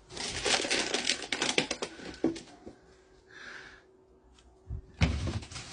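Close rustling and crackling for about two seconds, then a short soft hiss, and another rustle near the end.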